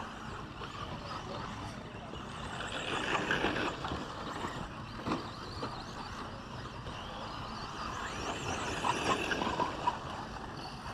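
Radio-controlled 2WD short course trucks racing on the track, their motors whining up and down as they speed past, louder about three seconds in and again near nine seconds.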